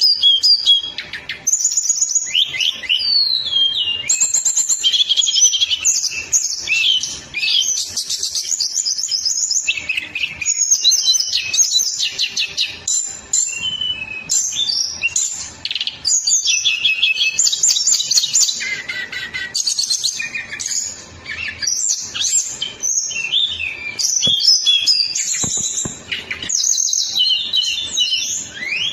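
Songbird singing a fast, dense, unbroken stream of high chirps, trills and rapidly repeated notes. This is a 'masteran' song recording, used to teach caged birds a rapid, tightly packed song.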